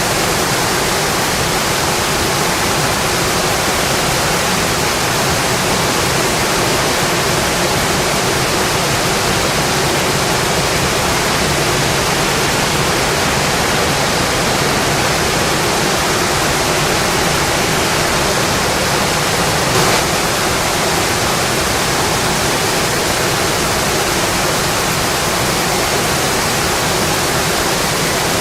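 Steady rainfall, a dense, even hiss of rain with no change in strength, and one brief tap about twenty seconds in.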